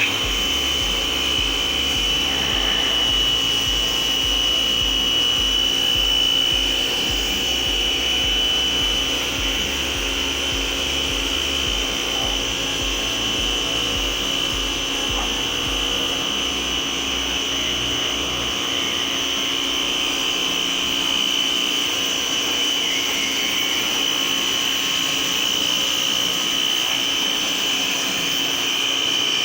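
Tecna electric pressure washer switched on and spraying soap, running steadily with a strong high whine over the hiss of the water jet.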